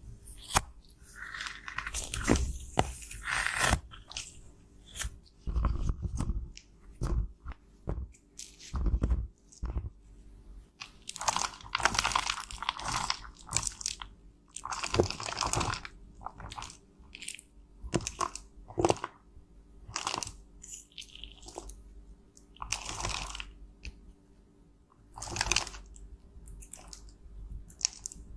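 Cosmetics being crushed and scraped apart close to the microphone: irregular crunching and scraping strokes with sharp clicks in between.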